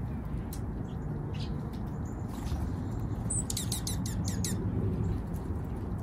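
A wild bird calling: a quick run of about seven sharp, high, downward-sweeping notes a little past halfway, with scattered faint chirps, over a steady low background rumble.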